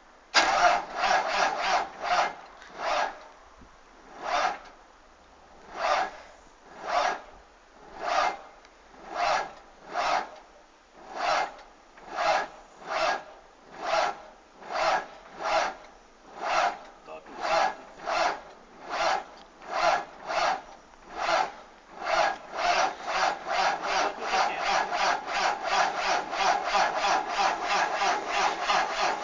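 Renault Magnum truck's diesel engine on a cold start: rough pulses about once a second with gaps between them, coming faster from about 22 seconds in until they run together into a continuous, uneven running sound as the engine catches.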